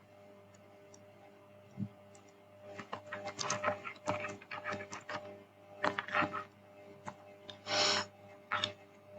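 Computer keyboard keys tapped in quick runs of clicks, in two bursts about 3 and 6 seconds in, over a steady electrical hum. A short puff of breath-like noise comes near the end.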